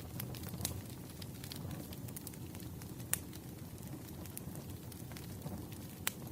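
Wood fire crackling: irregular small snaps and pops, with a louder pop about three seconds in and another near the end, over a steady low rumble.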